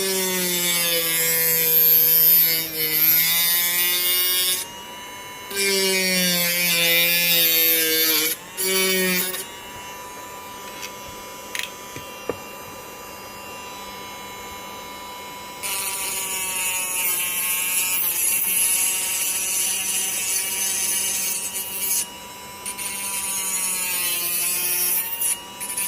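Homemade drilling and cutting machine driven by a 775 DC motor: the motor runs with a steady hum, and several times it bogs down in pitch under load with loud grinding noise as it works into the material.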